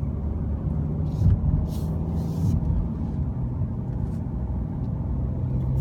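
Mercedes-Benz C220d's four-cylinder turbodiesel heard from inside the cabin, a steady low drone under road and tyre noise. The engine is on overrun just after a downshift, giving only weak engine braking. A few short hisses come about one to two and a half seconds in.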